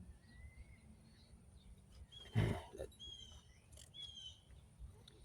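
Birds chirping in the background, short repeated calls, with one brief thump about two and a half seconds in.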